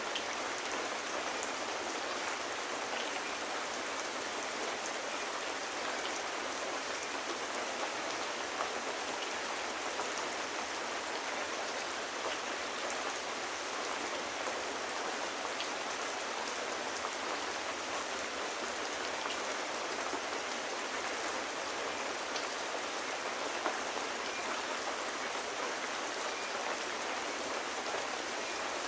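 Steady rain, with scattered sharper drop ticks.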